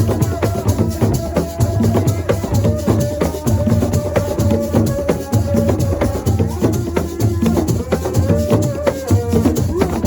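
Senegalese assiko music: fast, dense percussion in a steady rhythm, with a held pitched line above it.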